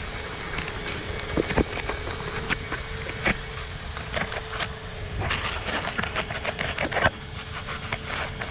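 ARRMA Talion 6S electric RC car driving over loose, wet dirt, its tyres crunching and throwing debris in a rapid crackle that is thickest about five to seven seconds in. A steady hum runs under it for the first few seconds.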